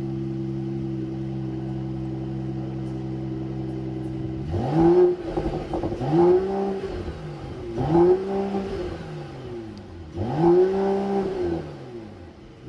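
Mercedes-AMG GT 4-door engine idling steadily, then blipped four times, each rev rising and falling back to idle.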